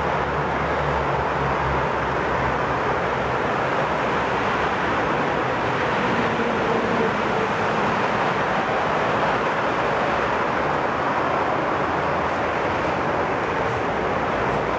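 Passenger train arriving behind an electric locomotive, a steady rushing hum as it draws slowly into the station.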